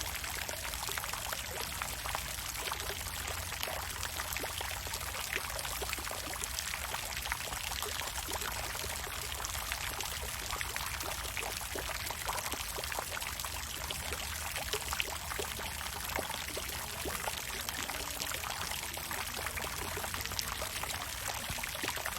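Water fountain splashing steadily: a constant rush of falling water with many small droplet splashes scattered through it.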